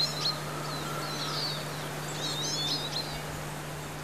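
Small songbirds singing in short, chirping phrases outdoors, over a steady low hum.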